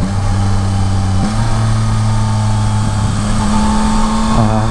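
Yamaha Tracer 9 GT's 890 cc inline-three engine running under way and being downshifted with its two-way quick shifter: the engine note steps up in pitch twice, near the start and about a second in, over wind and road noise.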